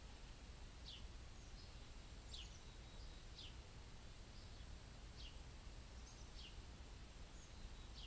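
Faint bird chirping: short high notes that fall in pitch, repeated about once a second, over a steady low outdoor background noise.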